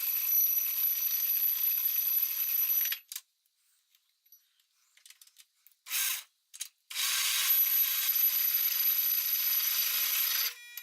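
A machine tool cutting the register step on a metal chuck adapter plate: a steady cutting noise with a high whine. It stops about 3 s in, a few light clicks and a brief burst follow, and the cutting starts again about 7 s in.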